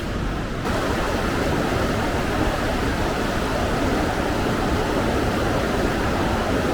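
A fast mountain stream rushing steadily below a footbridge. The water noise fills out and grows slightly louder just under a second in.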